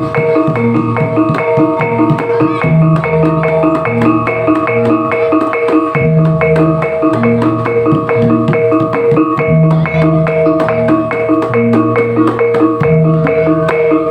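Topeng Ireng dance accompaniment music: a fast, steady beat of struck, ringing gamelan-style percussion, about five strikes a second, over a repeating pattern of low drum notes.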